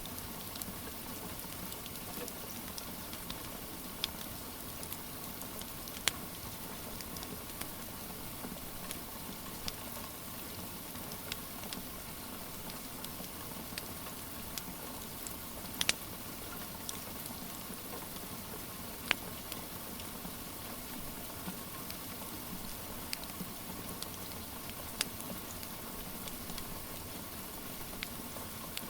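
Steady rain with a wood fire crackling, sharp pops every few seconds.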